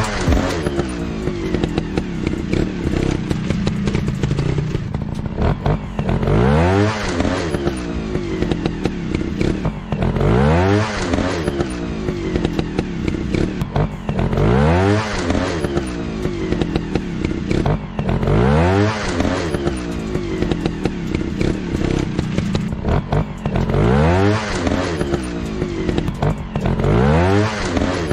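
Motorcycle engine running with a rising rev about every four seconds, over a steady running note, with clattering clicks throughout.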